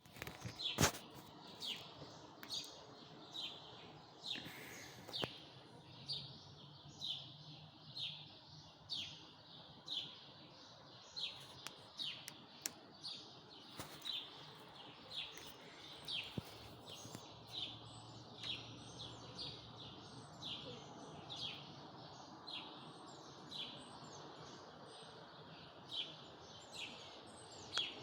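A songbird repeating a short, high call that slides down in pitch, about once a second, over faint background noise. A sharp click comes just before one second in.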